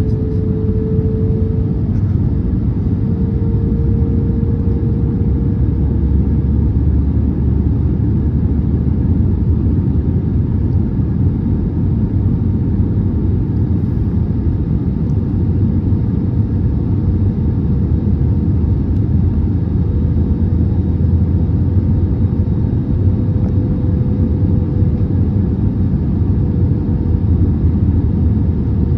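Airbus A320neo cabin noise during the final approach and landing: a steady low rumble of engines and airflow, with a steady whine near 500 Hz running through it.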